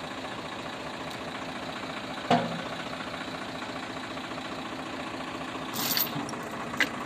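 Diesel tractor engine running steadily at idle, with a sharp metallic clank about two seconds in and a short rush of noise and a click near the end.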